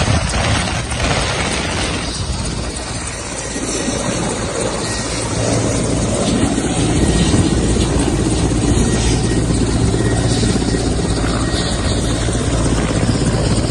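Steady mechanical drone with a fast low flutter, growing stronger about four seconds in.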